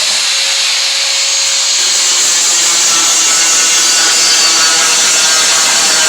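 Large angle grinder running steadily under load, grinding rust off the rusty steel bed of a 1997 Ford Ranger: a loud, unbroken grinding hiss.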